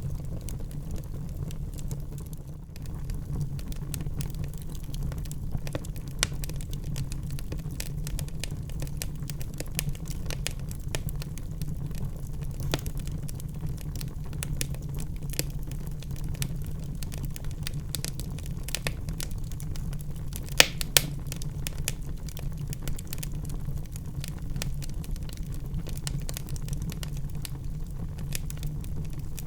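Wood fire burning in a fireplace: a steady low rumble with frequent small crackles and snaps, and two louder pops about two-thirds of the way through.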